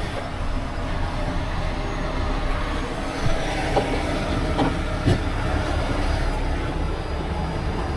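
Steady low mechanical rumble with four sharp knocks between about three and five seconds in, as edge protectors and straps are handled against a load of wood.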